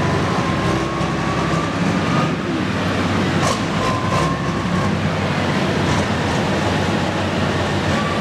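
Pro stock pulling tractor's turbocharged diesel engine running steadily, with a thin high whistle that comes and goes over the engine noise.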